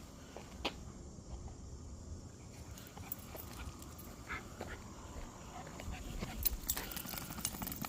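A dog moving about: faint scattered ticks and scuffs, with a couple of brief soft whimpers.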